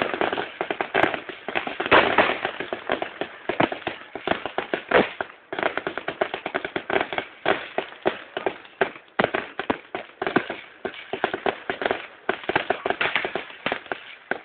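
Fireworks going off in rapid succession: a dense run of sharp cracks and pops, several a second, with a brief lull about five seconds in.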